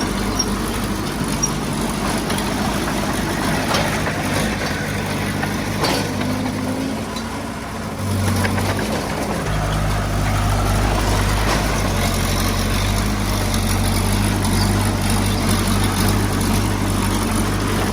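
Heavy diesel engine of the earthmoving machinery running steadily, with its low note growing heavier a little past halfway through.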